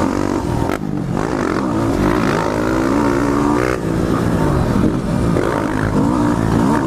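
Modified Yamaha WR250R's single-cylinder four-stroke engine, big-bored to 310 cc with an FMF exhaust, revving up and down under hard riding. Its pitch rises and falls repeatedly with throttle and gear changes, with a brief drop just under a second in.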